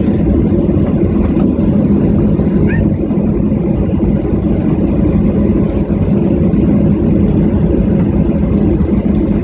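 Steady cabin drone of a jet airliner on the ground before takeoff, with a continuous low hum from the engines running at low power and the cabin air system.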